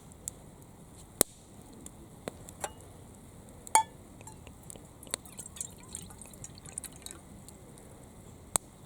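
A few scattered sharp clinks of hard objects being handled, the loudest about four seconds in with a short metallic ring, and a run of small light ticks a little after the middle.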